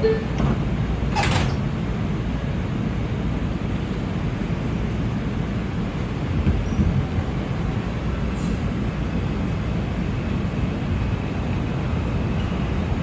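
Inside an R142 subway car: the doors close with a short knock about a second in. Then comes the steady low rumble of the car as the train pulls out of the station.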